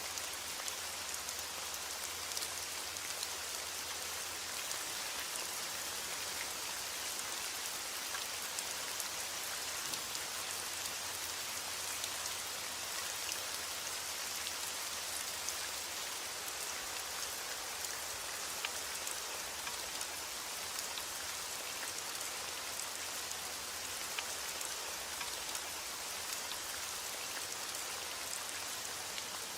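Steady rain falling on a surface, an even hiss with scattered individual drop ticks and no thunder.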